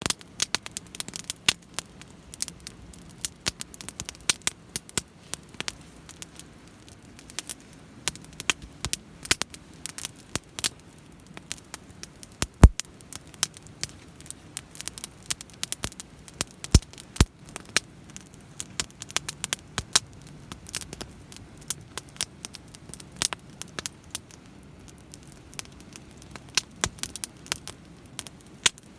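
Wood campfire crackling and popping in a Picogrill fire pit, with irregular sharp snaps, the loudest pop about halfway through.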